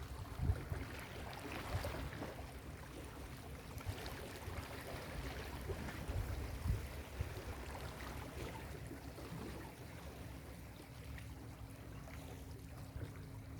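Ocean surf breaking and washing up a beach: a steady rushing wash with a low rumble, easing off a little in the later part.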